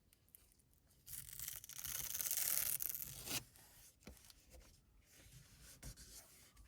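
Vinyl decal on its transfer tape being worked onto a plastic sun visor: a scratchy rubbing, tearing-like sound that starts about a second in and lasts about two seconds, followed by faint light handling noises.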